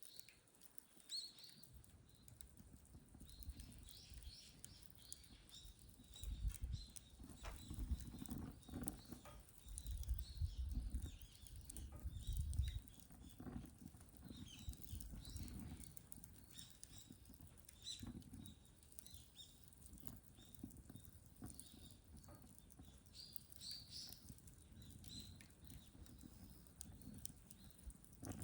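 Birch firewood burning, crackling and popping with irregular sharp snaps, over a low rumble that swells for several seconds in the middle.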